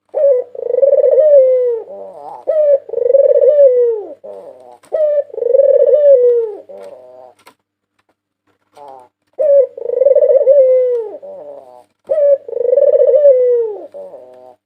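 White Barbary dove (puter putih) cooing: long, loud coos that dip in pitch at the end, each followed by a few short choppy notes. Three calls come in a row, then a pause of about two seconds, then two more.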